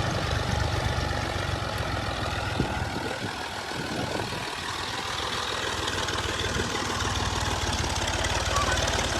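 Old combine harvester's diesel engine and threshing machinery running steadily, with a mechanical clatter over the engine's low rumble. There is one sharp knock about two and a half seconds in.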